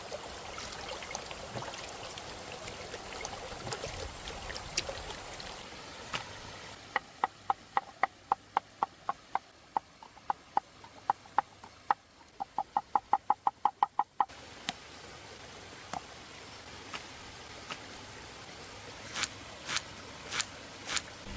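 A run of sharp, evenly spaced knocks, about two to three a second, quickening to about five a second before stopping abruptly, with a few scattered knocks afterwards over a soft background hiss.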